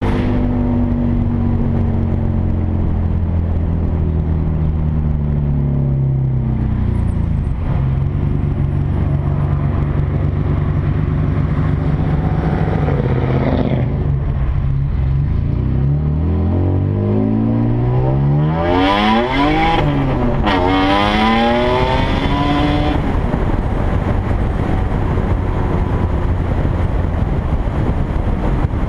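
Turbocharged 3.0-litre V6 of a Dodge Stratus R/T with a 3-inch straight-pipe exhaust, pulling at a little over half throttle. The revs fall and settle at first, then climb steeply past the middle, drop suddenly at the shift into second gear and climb again before levelling off to a steady cruise. A hiss rises along with the pull.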